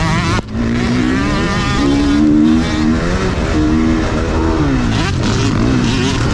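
Motocross bike engine revving hard, its pitch climbing and falling repeatedly as the throttle is worked through the track. The throttle is chopped sharply about half a second in.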